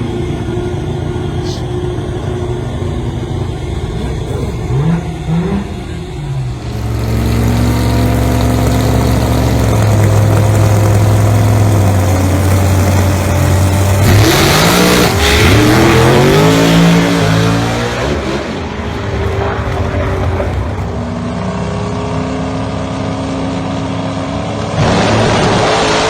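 Single-turbo 414 cid small-block Chevrolet V8 in a drag car, running with a couple of short revs. About six seconds in it goes much louder and holds high, near-steady revs for about seven seconds, then revs up and down sharply several times, drops back to a lower note, and goes loud again near the end.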